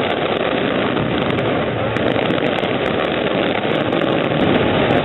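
Fireworks display going off continuously: a dense, steady crackle of bursting shells with no single boom standing out.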